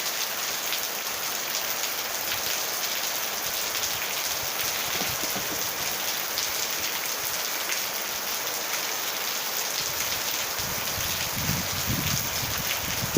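Steady heavy rain falling, a dense hiss full of fine drop ticks. A low, uneven rumble joins in near the end.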